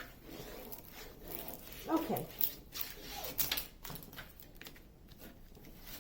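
Scattered crinkling and clicking of the painting's plastic cover being handled and smoothed, with a short falling whine about two seconds in and a fainter one a little later.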